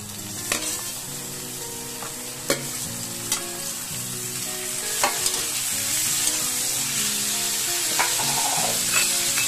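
Onions, green chillies and freshly added tomatoes sizzling in hot oil in a pan, the frying growing louder partway through. A steel slotted ladle stirs the mix and clinks sharply against the pan several times.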